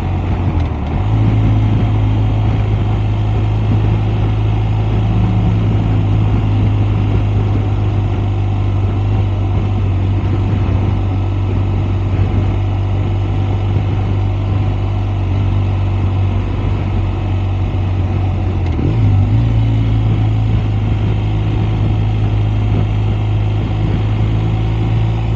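BMW R 1250 RS's boxer twin engine running steadily while riding, a constant low drone. The note dips and picks up again about a second in and once more around nineteen seconds.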